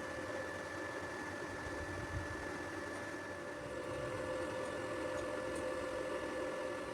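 Steady machine hum with two constant whining tones over a hiss.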